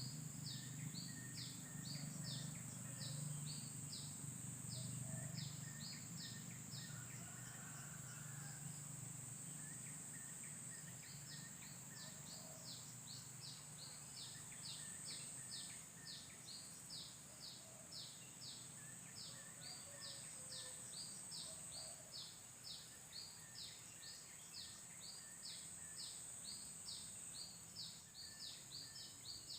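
Outdoor ambience: a steady high-pitched drone with rapid high chirps repeating several times a second. A low rumble fades out over the first several seconds.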